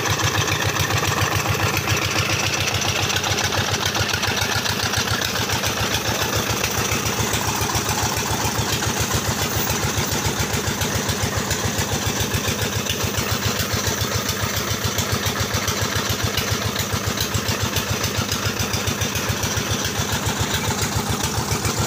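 25 horsepower Petter diesel engine of a flour mill (atta chakki) running steadily, its exhaust beating in an even, rapid rhythm.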